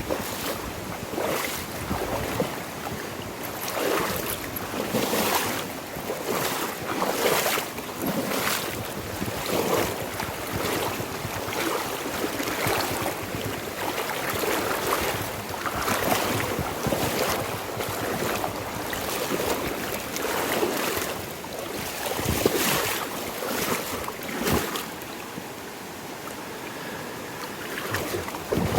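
Water rushing steadily in a swollen river, with irregular splashes and knocks about every second or two.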